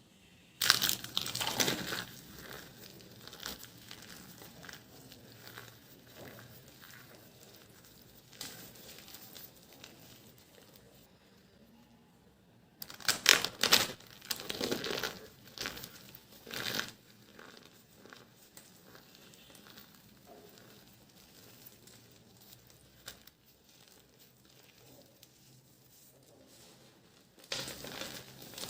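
Dry soap crushed and crumbled, crackling and crunching in bursts. There is a loud spell about a second in, another in the middle, and a last one near the end, with softer rustling crumbles between.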